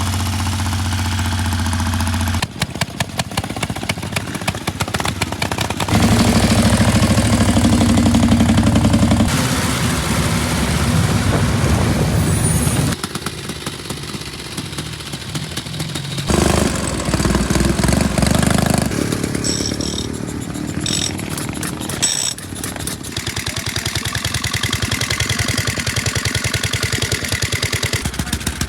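Vintage motorcycle engines running in a string of short clips, mostly a fast, even beat of exhaust pulses. The sound changes abruptly every few seconds as one machine gives way to another.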